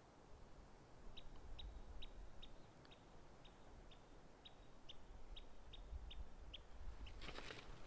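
A bird calling a long series of short, high chips, about two or three a second, over a low rumble of wind. A short crackling rustle comes near the end.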